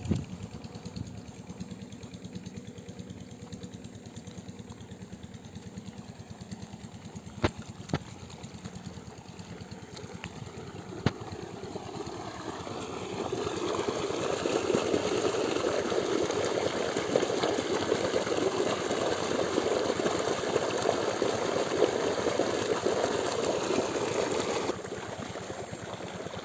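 Small single-cylinder diesel pump-set engine running steadily with a fast, even firing beat. A few sharp clicks come partway through. Then a louder rushing noise builds in about halfway and stops abruptly near the end.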